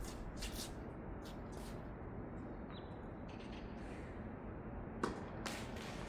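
Tennis being played: short scuffing noises in the first two seconds, a sharp ball strike about five seconds in, and a steady background noise throughout.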